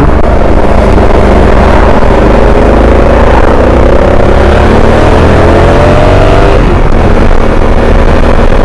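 Motorcycle engine under way, rising steadily in pitch as it accelerates for about four seconds, then dropping suddenly about six and a half seconds in, over a steady rush of wind.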